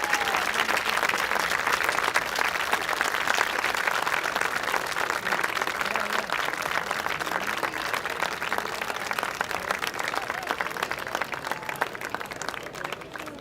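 Audience applauding, dense clapping that slowly dies down toward the end.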